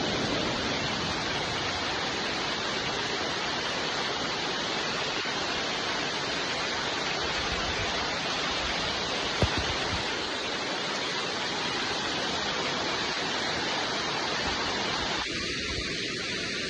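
Steady rain falling, an even hiss with no let-up, with one sharp tap about nine seconds in. Near the end the hiss turns slightly thinner in its middle range.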